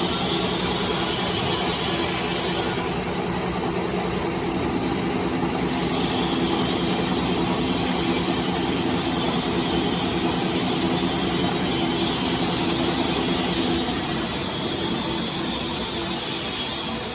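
Automatic neck paper roll rewinding machine running steadily: a continuous mechanical hum with several steady tones over a wash of noise, easing off slightly near the end.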